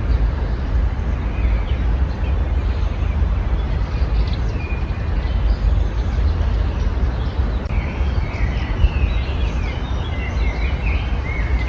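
Small songbirds chirping and singing in short phrases, busier in the second half, over a steady low rumble.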